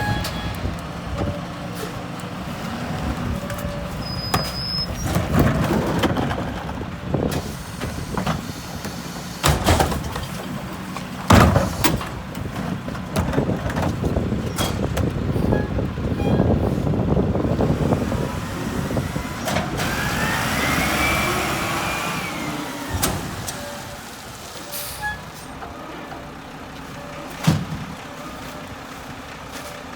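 Mack MRU rear-loader garbage truck with a McNeilus body, its diesel engine running at a collection stop. There are sharp metallic bangs about ten and eleven seconds in, and a sound that rises and then falls in pitch around twenty seconds in.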